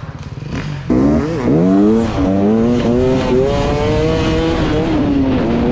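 Dirt bike engine revving close by. It starts suddenly about a second in, with a quick dip in pitch, then climbs and holds a high, fairly steady rev.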